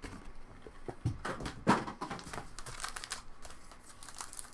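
Crinkling of trading-card pack wrappers being handled and opened, in irregular crackly rustles.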